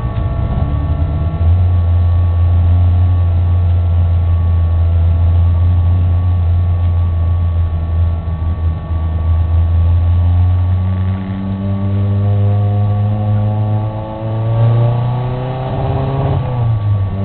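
Race car engine heard from inside the stripped, roll-caged cabin, held at steady revs for several seconds. It then accelerates, its pitch climbing for about four seconds, and drops sharply near the end before settling again.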